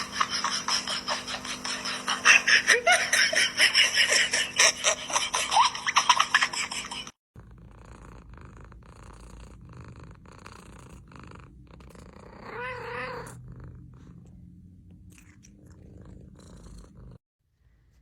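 Domestic cat sounds. For the first seven seconds there is a loud, dense run of clicks and short chirps. After an abrupt cut, a quieter stretch carries one short wavering meow a little past halfway through.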